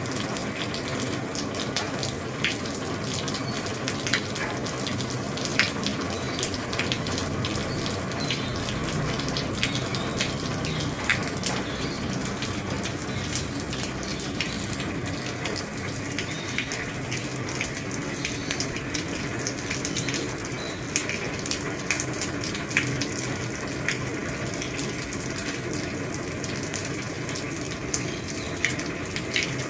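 Steady rain falling on an old roof: a constant hiss of rain with many scattered sharper drip and tap sounds of single drops striking.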